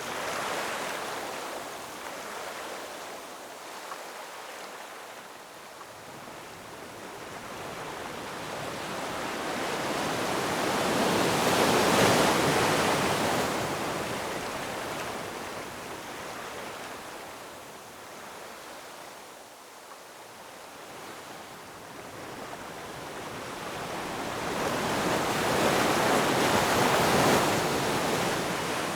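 Ocean waves breaking and washing up on shore. The surf swells slowly to a loud peak and fades away twice, the two peaks about fourteen seconds apart.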